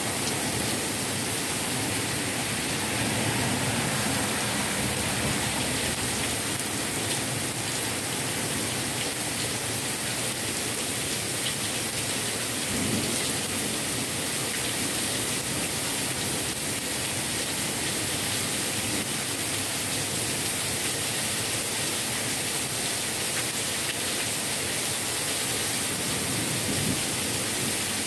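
Heavy rain pouring steadily through a tree and onto the street: a dense, even hiss that holds without a break.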